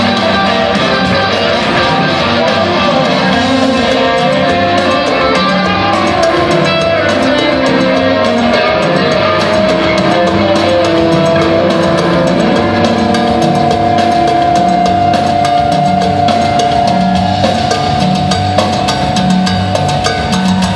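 Live rock band jamming: drum kit, bass and electric guitar playing together at full volume. About halfway through, one long note is held over the beat until near the end.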